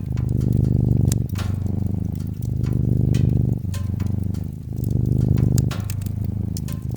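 Domestic cat purring close up, a fast low rattle that shifts back and forth about once a second as the cat breathes in and out, with the sharp pops and crackles of a wood fire scattered over it.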